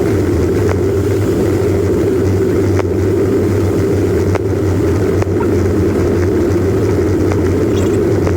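Steady drone of a vehicle's engine and road noise heard from inside the cab while driving, with a few faint clicks now and then.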